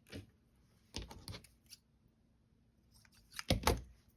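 Scissors snipping fabric in short groups of snips, a few about a second in and a louder group near the end.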